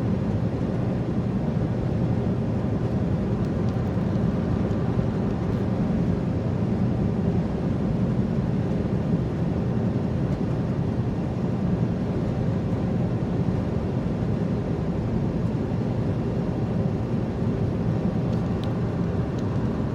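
Steady, deep drone of a semi truck cruising on the highway, heard from inside the cab: engine and road noise.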